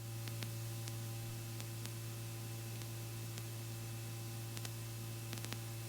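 Faint steady low electrical hum with a constant static hiss and scattered faint clicks, the background of a helicopter's intercom audio feed between transmissions.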